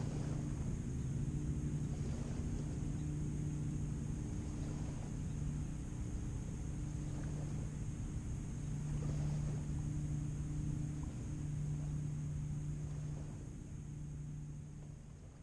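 A motorboat's engine running at a steady drone with a low hum, over a wash of wind and water noise. It fades out over the last couple of seconds.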